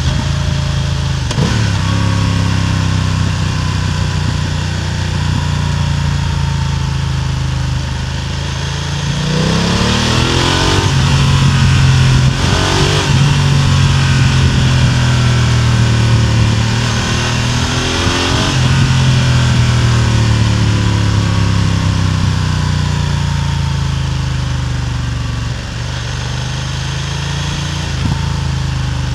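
BMW F900R parallel-twin engine and exhaust, heard close up from above the exhaust, running under way. The note holds steady, then rises in pitch several times through the middle of the stretch as the engine is revved up, and is louder there.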